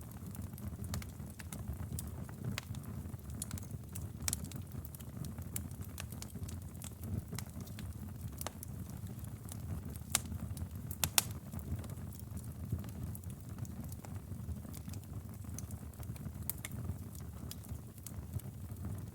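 Wood fire burning in a fireplace: a steady low rumble of flames with irregular sharp crackles and pops, a few louder pops about ten to eleven seconds in.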